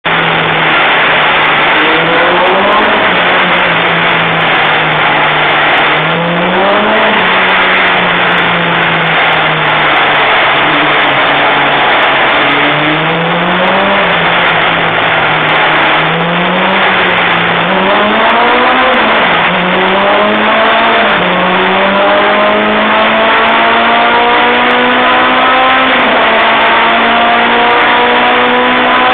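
Supercharged Honda K20 inline-four in a Lotus Elise running on a chassis dyno. The engine note rises and falls in several short swells, then climbs slowly and steadily in revs through the last third.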